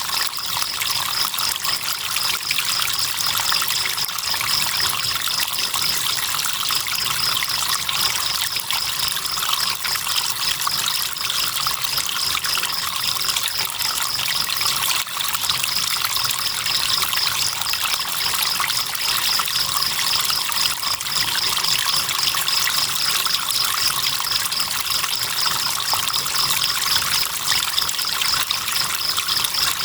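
River water trickling and flowing steadily, with crickets chirping in a rapid, high-pitched pulsing trill that breaks off briefly a couple of times.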